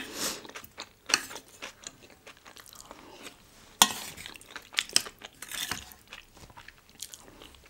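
Close-miked chewing and crunching of food, with crisp bites and wet mouth sounds coming irregularly, typical of eating crunchy young-radish (yeolmu) kimchi bibimbap. A single sharp click a little before halfway is the loudest sound.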